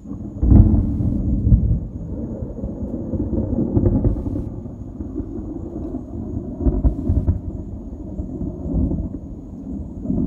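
Close thunder: a sudden clap about half a second in, then a long low rumble that swells and fades several times.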